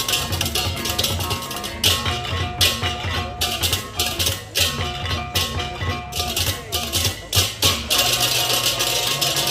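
Balinese baleganjur gamelan playing: fast, dense clashing of cengceng cymbals over kendang drums, low gong strokes and short repeated melodic figures on small pitched gongs. The cymbal clashing grows fuller near the end.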